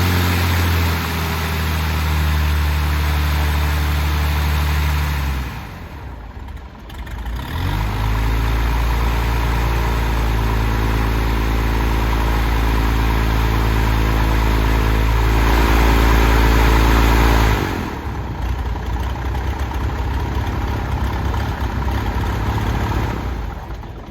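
Piston aircraft engine and propeller running on the ground. The engine note drops away sharply about five seconds in and comes back about two seconds later, then holds steady. It falls to a lower level about two thirds of the way through, and the engine stops just before the end.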